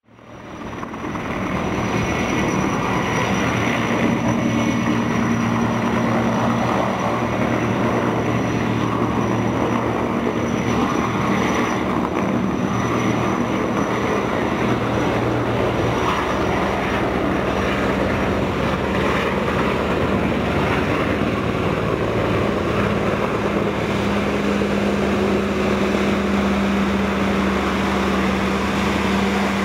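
Steady engine drone with a low hum, fading in over the first second; the hum shifts slightly in pitch about halfway through and again near the end.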